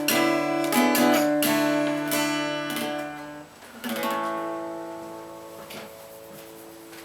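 Acoustic guitar strumming chords, then a last chord struck about four seconds in that rings out and slowly fades away, ending the song.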